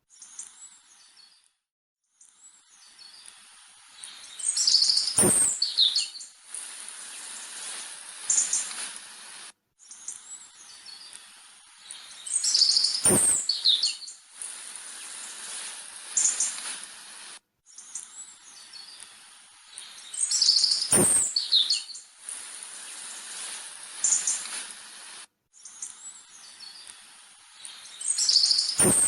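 Birds chirping and whistling in a short recording that loops about every eight seconds, with a brief gap between loops. Each pass carries a sharp click among its loudest chirps.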